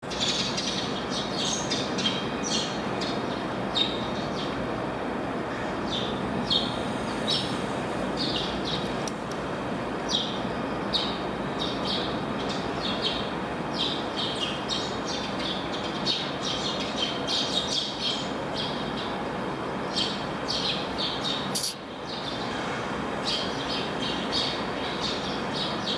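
Small birds chirping repeatedly in short high calls over a steady rumbling background noise.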